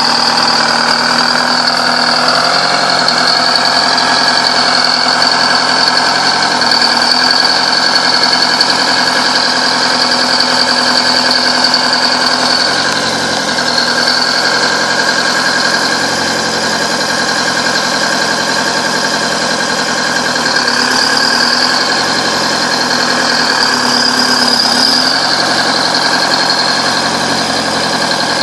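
Bulldozer's engine running steadily, its speed dipping and rising a few times.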